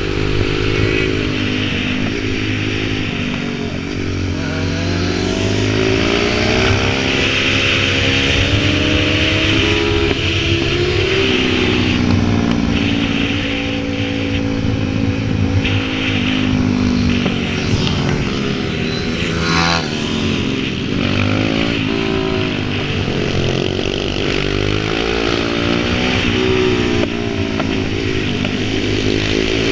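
Pit bike engine running and being revved, its pitch repeatedly rising and falling as the throttle is opened and closed.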